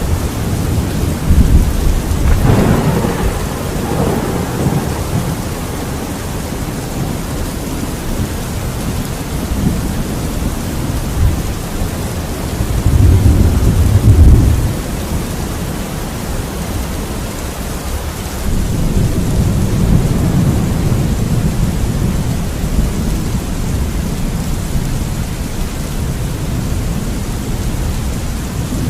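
Steady rain with rolls of thunder: a sharper peal near the start, a loud low rumble about halfway, and a longer rolling rumble in the second half.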